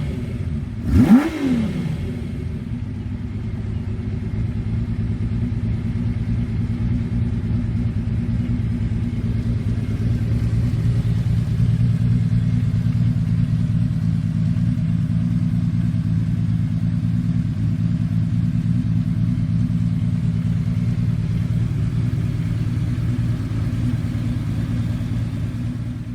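Kawasaki KZ1300's inline-six engine: a quick throttle blip about a second in, then running steadily at an even speed.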